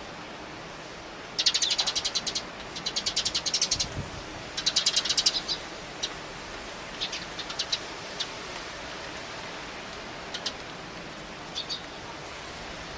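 Eurasian tree sparrows chattering: three rapid rattling runs of high notes in the first half, then scattered single chirps, over the steady hiss of strong wind.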